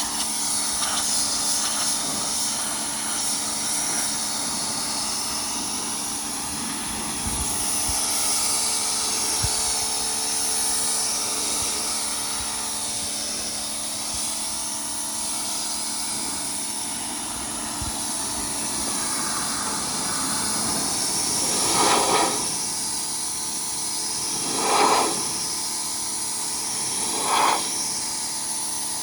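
Pressure washer running with a steady hiss of its water jet, swelling louder three times near the end as the spray sweeps across a surface.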